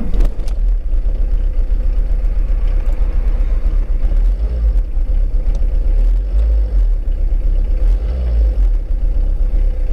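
Car driving along at a steady pace: a continuous low engine and road rumble with a faint steady hum above it.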